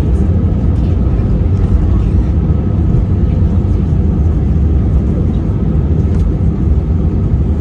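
Steady, loud low rumble of an Airbus A321's engines and airframe heard from inside the passenger cabin.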